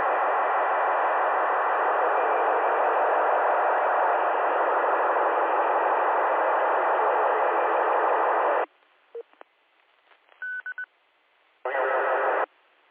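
FM two-way radio receiving a noisy open channel: a steady loud static hiss for about nine seconds that cuts off abruptly as the squelch closes. A few short beeps follow, then two brief bursts of static.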